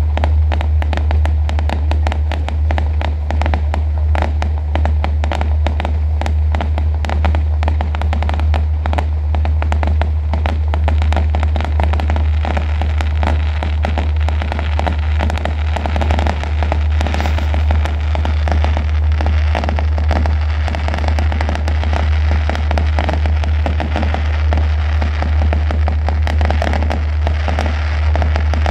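Fireworks display going off continuously, a dense run of bangs and crackling. Underneath runs a steady low drone.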